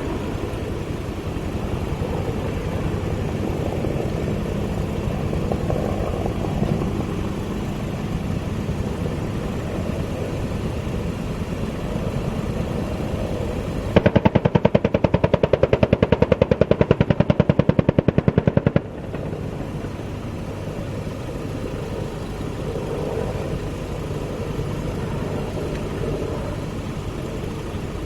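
A long, unbroken burst of machine-gun fire lasting about five seconds, starting about halfway through, loud over a steady engine-like rumble that runs throughout.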